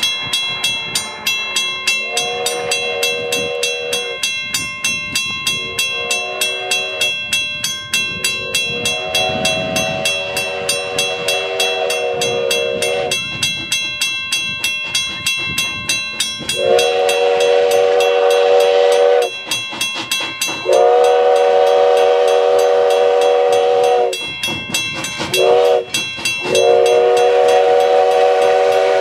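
US Sugar No. 148, a 4-6-2 steam locomotive, working with steady exhaust chuffs about twice a second and sounding its chime steam whistle seven times, some long blasts and some short ones, the whistle the loudest sound.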